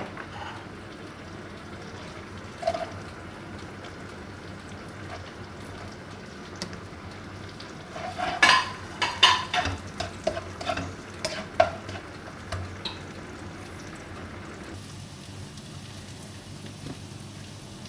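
Chopped onion sizzling steadily in margarine in a hot wok. A stirring utensil scrapes and knocks against the pan in a quick run of strokes between about eight and twelve seconds in, with a single knock a few seconds earlier.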